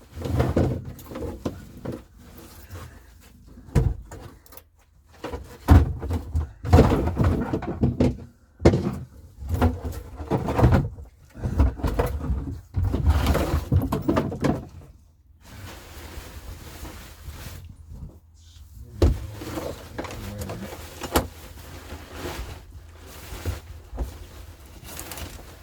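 Irregular thumps, knocks and clatter of gear being handled and shifted about, with quieter gaps between.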